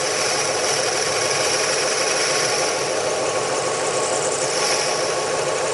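Boring machine running steadily as it bores out a corroded Porsche 911 mechanical-fuel-injection throttle body bore, with a steady high whine over the running.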